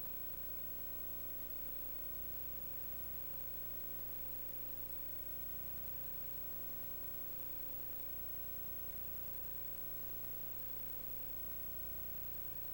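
Steady hiss with a constant electrical hum and a faint steady tone, unchanging throughout, with no other sound.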